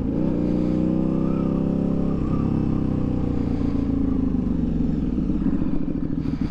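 KTM motorcycle engine pulling through the gears: the pitch climbs, drops sharply as it shifts up right at the start and again about two seconds in, then holds at steady revs while cruising.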